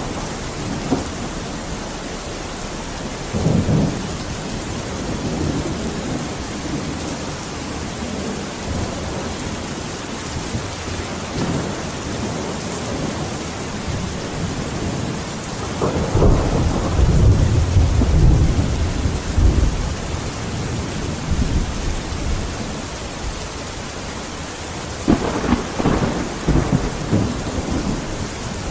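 Steady rain falling, with thunder rumbling over it three times: briefly about a few seconds in, longest and loudest in the middle, and again near the end.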